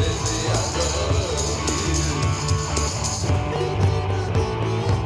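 Rock band music from a hollow-body electric guitar, an electric bass and a cajon kit. A wavering melodic line plays over a steady bass, and the cajon's strokes stop about three seconds in.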